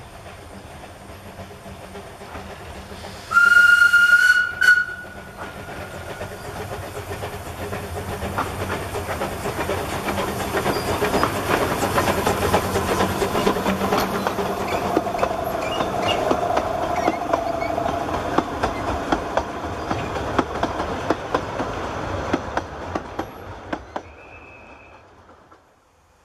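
Narrow-gauge train passing close by: the locomotive whistles one long blast about three seconds in, with a short pip after it. The engine and carriages then run past, louder toward the middle with wheels clicking over the rail joints, and die away near the end.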